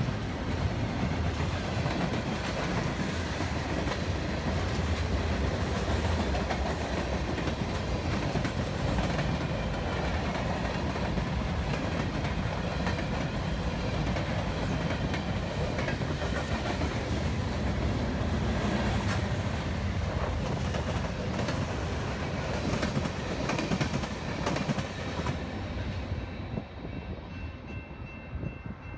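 Freight train of double-stack intermodal cars, tank cars and covered hoppers rolling past close by: a steady rumble with steel wheels clicking over the rail joints. The noise drops away near the end as the last cars pass.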